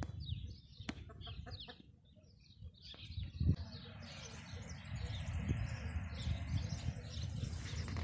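Birds chirping in quick, short, high notes, most densely in the first couple of seconds, over a steady low rumble.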